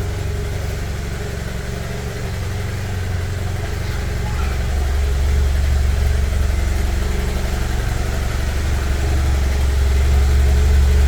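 Motorcycle engine running steadily at low revs, getting louder about four seconds in and again near the end.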